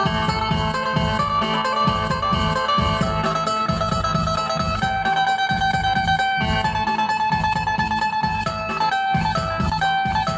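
Phin (Isan Thai lute) music: a plucked melody of quick notes over a steady bass and drum beat.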